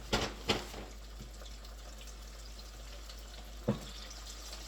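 Chicken frying in oil, a steady sizzle, with two sharp knocks just after the start and another a little before the end.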